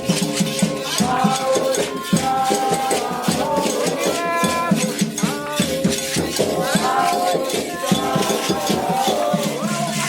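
Candomblé ritual music: voices chanting over a steady, fast rhythm with a shaken rattle.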